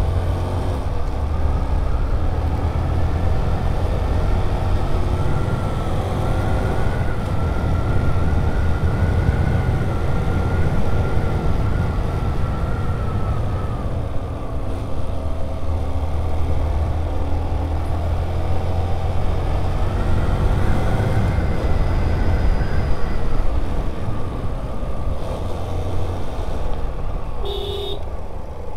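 Hero Super Splendor's 125 cc single-cylinder engine running steadily under way on the road, its note rising and easing as the rider works the throttle and gears.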